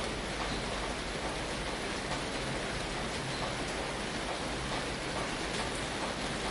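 Rain falling steadily on a tin roof: a dense, even hiss with scattered faint taps of single drops.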